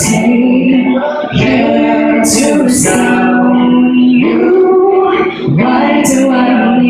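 A voice singing long, held notes over acoustic guitar, with crisp 's' sounds between phrases.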